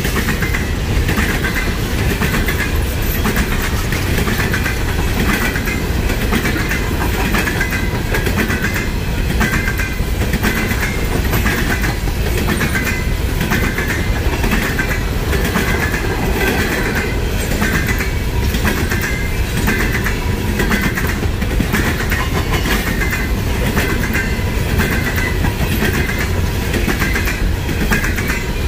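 Freight train cars rolling past at speed: a steady rumble of wheels on rail with a regular, repeating clickety-clack.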